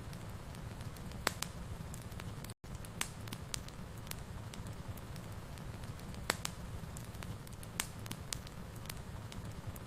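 Wood fire burning in a fireplace: a steady low rumble with sharp crackles and pops at irregular intervals. The sound cuts out for an instant about two and a half seconds in.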